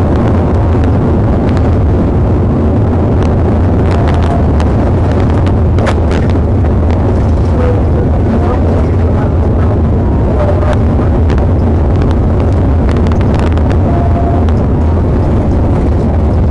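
Steady, loud engine and road noise of a patrol car driving at speed, dominated by a low drone, with scattered faint ticks and clicks.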